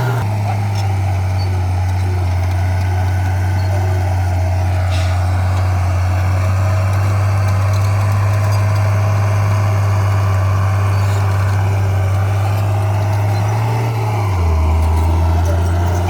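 Heavy-equipment diesel engine running steadily under work, with its note dropping lower about fourteen seconds in.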